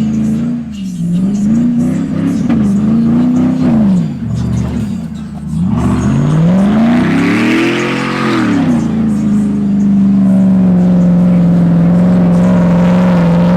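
Truck engine with a loud exhaust being revved: several quick blips of the throttle, then one long rev up and back down, then held at steady high revs for a few seconds before it drops off near the end.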